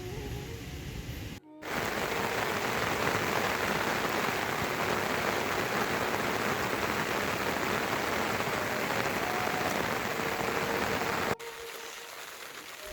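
Steady rain falling, an even hiss that starts abruptly about a second and a half in and drops away suddenly near the end.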